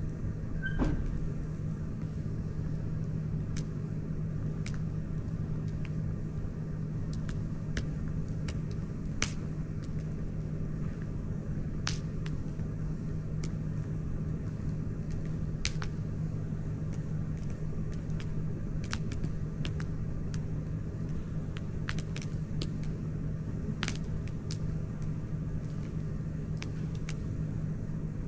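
Wood campfire crackling, with sharp irregular pops every second or so over a steady low rumble. The loudest pop comes about a second in.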